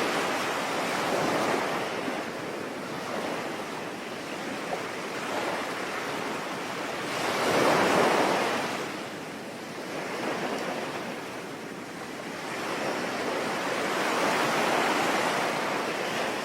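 Sea waves breaking and washing in slow surges that swell and fade, the biggest about halfway through, over a steady hiss of rain.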